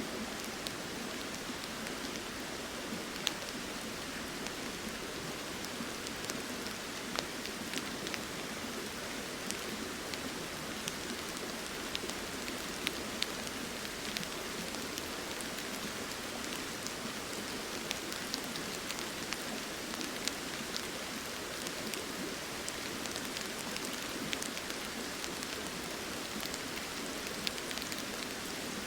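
Steady rain falling, with many sharp drop hits scattered irregularly over an even rushing hiss, the flowing river running underneath.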